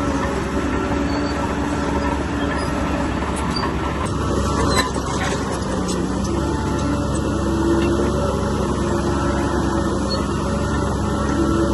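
Heavy diesel earthmoving machinery, such as a bulldozer, running steadily under load, with a single clank about five seconds in.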